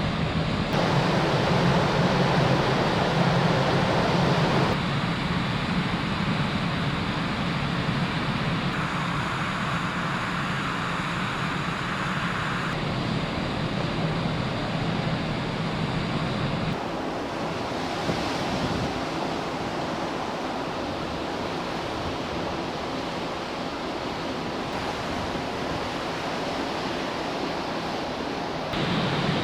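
Wind and rushing sea noise aboard a car ferry under way, with a low hum from the ship in places. The sound shifts abruptly every four seconds or so.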